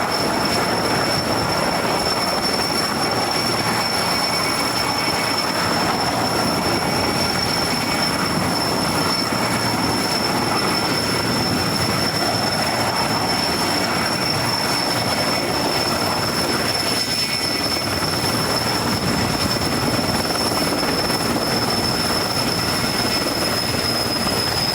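Sikorsky S-64 Skycrane helicopter running: steady rotor and engine noise with a continuous high turbine whine from its twin turboshaft engines.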